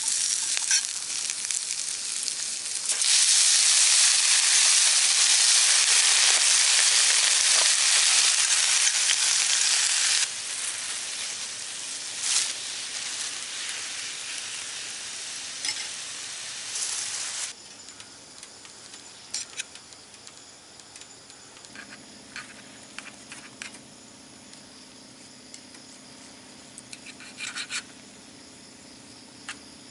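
Vegetables and a steak sizzling in a cast-iron skillet on a wood-burning camp stove, turned with tongs. The sizzle gets much louder about three seconds in, eases near ten seconds and falls to a faint hiss with scattered utensil clicks after about seventeen seconds.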